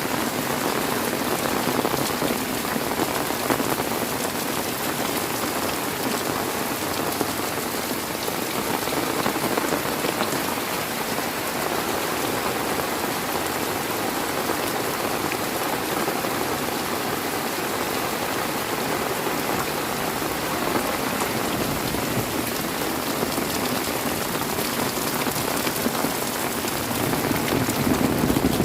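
Heavy rain falling steadily and densely onto surfaces, an even hiss with no thunder clap.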